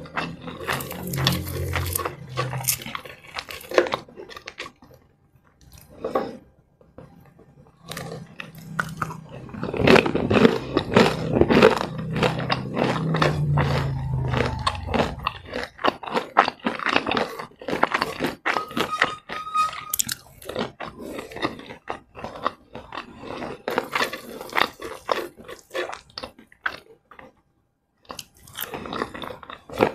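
Close-miked eating sounds: crunching and chewing crispy fried chicken, with dense irregular crackles and wet mouth sounds. There are a couple of short pauses.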